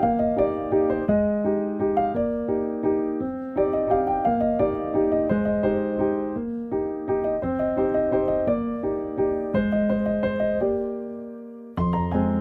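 Background piano music: a gentle melody of struck notes. It fades out about eleven seconds in, then starts again with a fuller low part just before the end.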